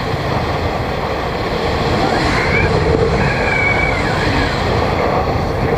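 Wind rushing over the microphone with a motorbike's engine running underneath, while riding down a steep hill.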